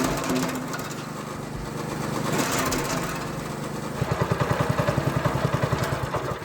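Single-cylinder petrol engine of a homemade wood chipper running; about four seconds in its note turns into a fast, even throbbing.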